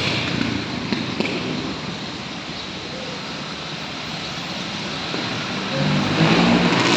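Steady street traffic noise. About six seconds in, a motor vehicle's engine comes close and grows louder.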